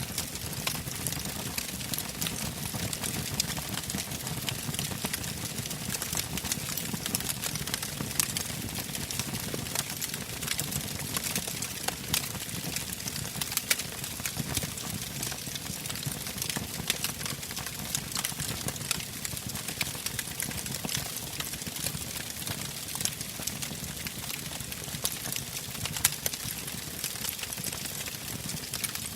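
Bonfire crackling and popping steadily, with irregular sharp snaps over a low rumble of burning.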